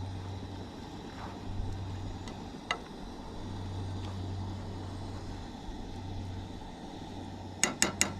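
Pasta being stirred in a pan on a camp stove: faint utensil taps over a steady low hum, then near the end a quick run of about six sharp clicks as the utensil knocks against the pan.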